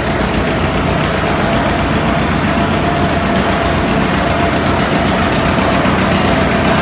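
Antique pulling tractor's engine running loud and steady, with a constant whining note over it, growing slightly louder.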